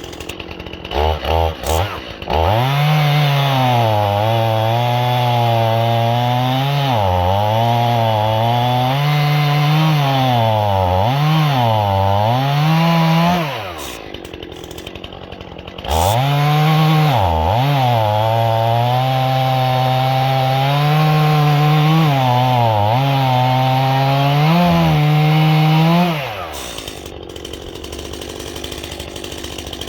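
Chainsaw idling and blipped a few times, then held at full throttle for about eleven seconds, its engine speed dipping and recovering as it cuts through a dead ash log. It drops to idle for a couple of seconds, cuts again for about ten seconds, and falls back to idle near the end.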